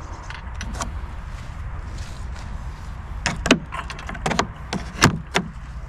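A handful of short sharp knocks and clicks, most of them in the second half, over a low steady rumble.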